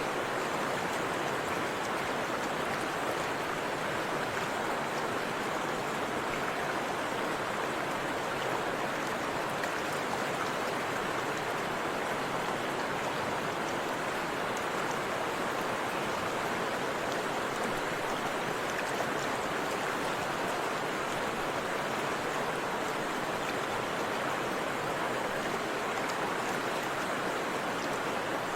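Forest river water flowing and rushing over a small waterfall, a steady, even rush with no breaks.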